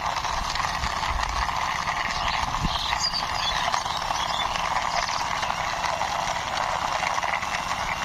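Toy sports car pushed along by hand, its small wheels rolling with a steady, fine clatter.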